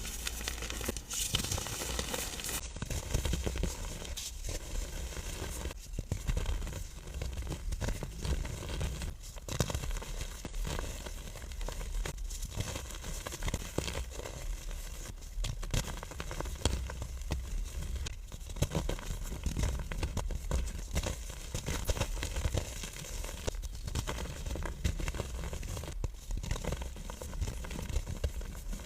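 A compacted block of powder being crushed and crumbled, a dense crunching and crackling made of many small clicks.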